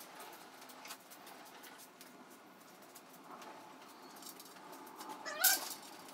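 Shop equipment being shifted around by hand: faint scattered clicks and knocks, then a short wavering squeak about five seconds in.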